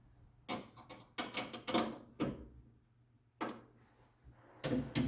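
Irregular clanks and knocks of hand tools and metal parts being worked under a car: a cluster of knocks in the first two seconds, one more a second later, and a double knock near the end.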